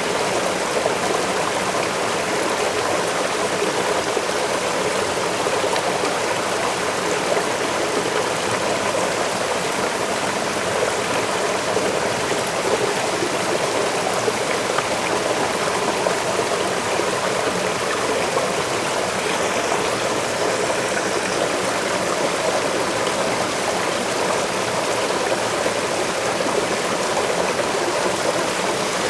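Waterfall: water pouring and rushing in a steady, even wash of noise with no breaks or separate splashes.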